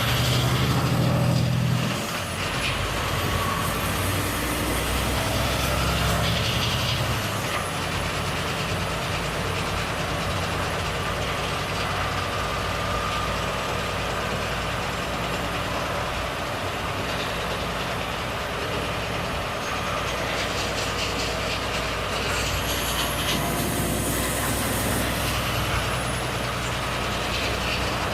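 Volvo FH truck's straight-six diesel engine running under way. A high whine rises and falls over the engine early on and again near the end. The sound drops briefly about two seconds in.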